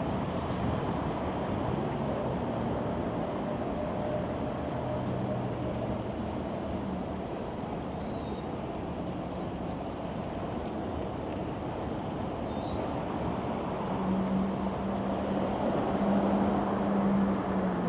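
City street traffic: vehicles running past in a steady wash of road noise, with a low engine hum that grows somewhat louder near the end as a vehicle comes close.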